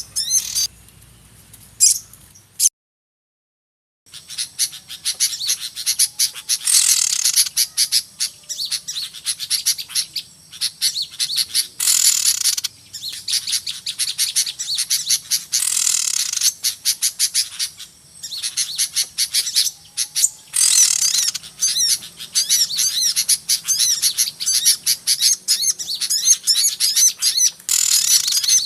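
A noisy chorus of many small birds chirping fast and without pause, played as a lure call for trapping small birds. About three seconds in the sound cuts out completely for about a second and a half, then the dense chirping resumes, with louder bursts of calls every few seconds.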